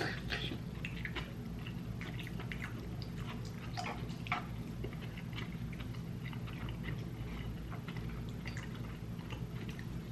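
Close-miked chewing of a mouthful of ramen noodles: a scatter of short, wet mouth clicks and smacks, one sharper click about four seconds in, over a steady low hum.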